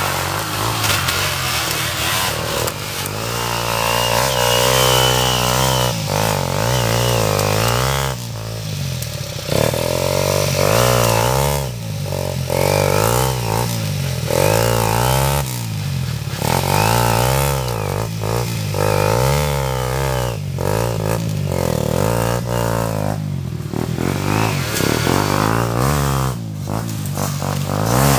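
Dirt bike engine being revved over and over, its pitch climbing and dropping about once a second.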